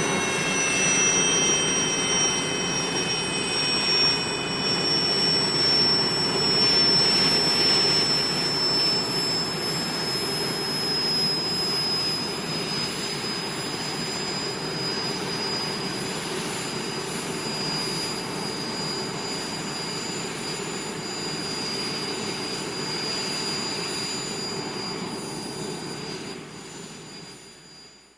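Alouette helicopter's turbine engine running with a rushing roar and several high whining tones that glide slowly lower, the sound easing off gradually as it comes in to land, then fading out at the very end.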